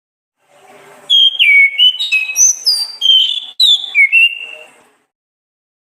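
Orange-headed thrush (anis kembang) singing one phrase of quick, varied whistled notes, many sliding down in pitch, lasting about four seconds.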